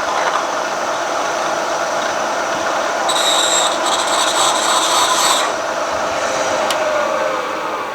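Tree vertical milling machine drilling into a hardened steel crankshaft, the bit cutting with a steady grinding whine, as the crank is bored out for Mallory heavy-metal balance slugs. A high squeal joins the cutting for a couple of seconds in the middle, and the spindle's pitch sinks and the sound fades near the end.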